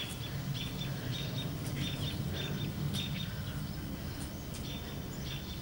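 Small birds chirping, short high chirps every second or so, over a steady low outdoor rumble.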